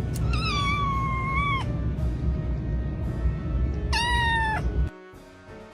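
A domestic cat meowing twice: a long, drawn-out meow falling slightly in pitch, then a shorter one about four seconds in. Both sound over a loud low rumble that cuts off abruptly near the end.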